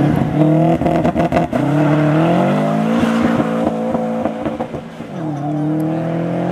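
Subaru Impreza's flat-four engine revving hard as the car accelerates away, its pitch climbing, dropping at a gear change about five seconds in, then climbing again. A quick run of sharp exhaust cracks comes about a second in.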